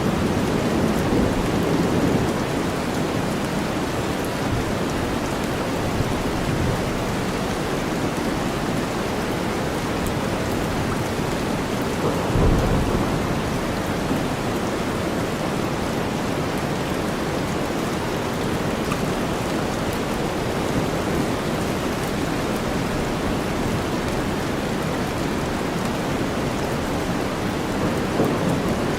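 Steady rain mixed with deep white noise, an even hiss. Low thunder rumbles come near the start and again briefly about twelve seconds in.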